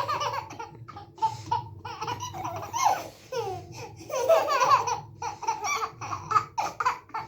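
Babies laughing hysterically in a string of short, breathy bursts, with a steady low hum underneath.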